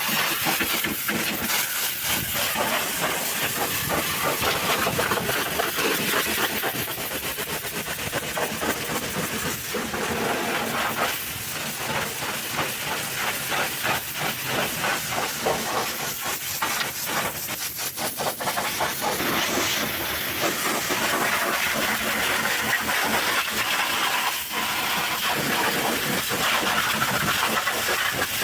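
High-pressure washer jet spraying water onto a truck engine: a loud, steady hiss with quick fluttering dips as the spray moves.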